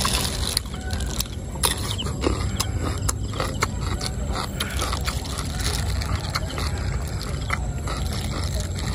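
A person chewing raw cucumber, with a few short crisp crunches and clicks scattered through, over a steady low rumble.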